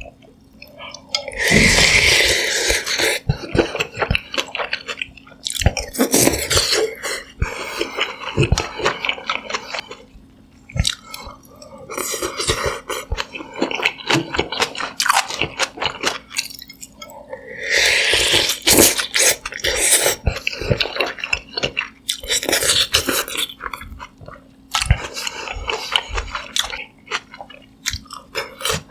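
Close-miked chewing and biting of a bowl of sundae gukbap, Korean blood-sausage rice soup, with wet mouth sounds and crunchy bites. Two louder, longer noisy stretches stand out, about two seconds in and again near the eighteen-second mark.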